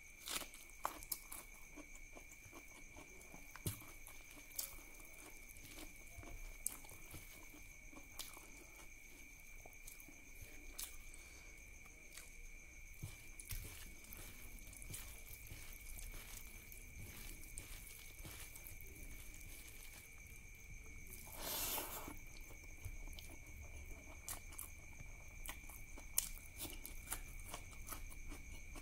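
Close-miked eating sounds: wet chewing, lip-smacking and sharp crunches as a man eats curry and rice by hand and bites into raw okra pods. There are many small clicks throughout, and a short louder rush of noise about three-quarters of the way through.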